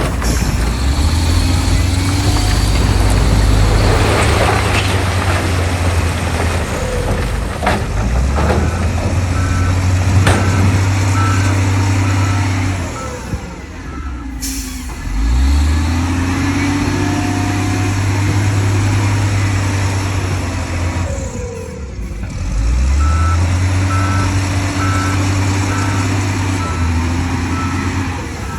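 Heavy earthmoving machine's diesel engine revving hard and easing off in long cycles as it works under load, with a reversing alarm beeping steadily at times and a short air hiss about fourteen seconds in.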